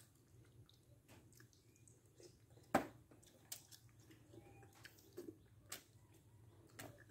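Faint chewing and wet mouth smacks as soft star apple flesh is eaten off the rind, with scattered small clicks and one louder click about three seconds in.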